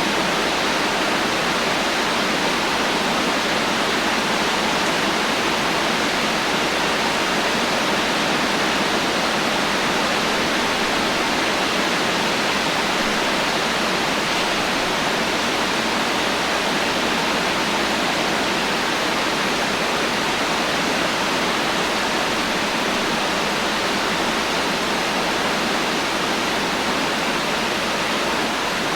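Heavy rain falling steadily, a dense even hiss with no thunder and no separate drops.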